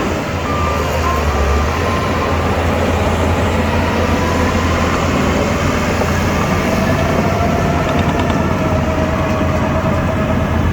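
Shantui DH17C2 crawler bulldozer working: its diesel engine runs steadily under load, with the clatter of the steel tracks.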